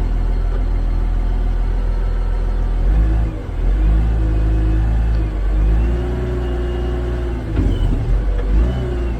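Caterpillar wheel loader's diesel engine running, growing louder about three seconds in, with its pitch rising and falling several times as the throttle is worked.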